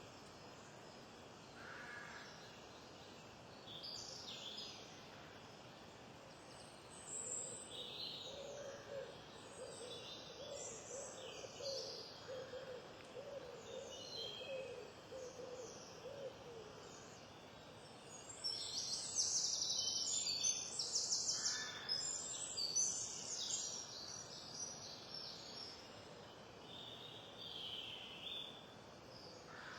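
Wild songbirds singing and calling: many short, high chirps and trills, busiest and loudest in the second half. A low, repeated hooting call runs through the middle.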